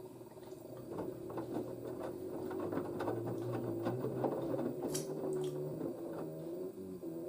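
LG DirectDrive F1496AD washer dryer's direct-drive motor turning the drum of wet towels. A steady motor hum builds up within the first second, with scattered knocks and clicks from the load, as the machine works to balance the towels before it will spin.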